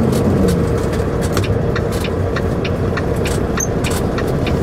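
Inside a semi truck's cab while driving, a steady low rumble of engine and road noise with scattered small sharp ticks and rattles.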